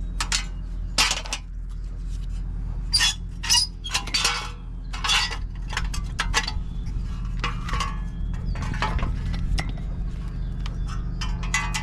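Irregular metallic clinks and clanks of tools and parts being handled as a truck's front wheel hub assembly is taken off, over a steady low hum.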